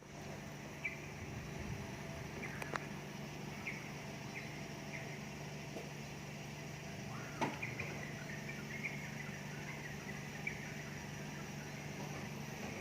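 Many birds chirping in short, scattered calls as they flock back to roost at dusk. Underneath runs a steady low hum, and a few sharp clicks stand out, the loudest about seven seconds in.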